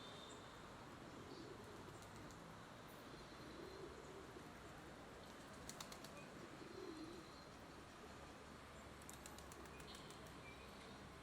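Faint low cooing bird calls, three of them a few seconds apart, over a quiet background hiss, with a few faint clicks about halfway and near the end.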